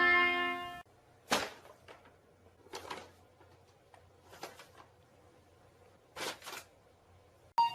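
A held musical tone cuts off abruptly under a second in. Then come four short, separate knocks or bumps, a second or two apart, with quiet between them.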